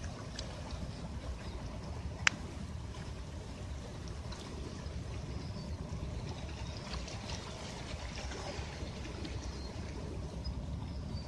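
Gentle sea waves washing at the shore, a steady low rush of water, with one sharp click about two seconds in.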